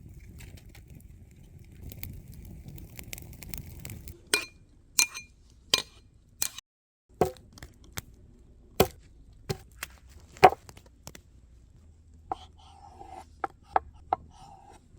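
Cookware and utensils clinking and knocking: about a dozen sharp strikes, a few ringing briefly, with a low rumble under the first few seconds.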